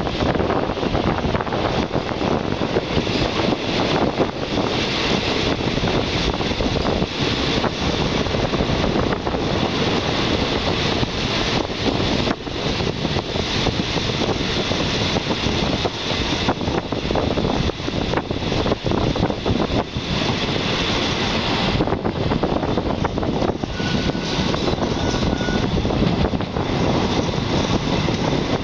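Moving passenger train heard from an open carriage window: a steady rumble of the wheels on the rails mixed with rushing wind.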